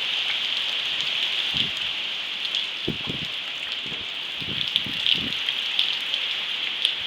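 Heavy rain falling steadily as a constant hiss, with individual drops ticking sharply on nearby surfaces. A few brief low bumps come in through the middle.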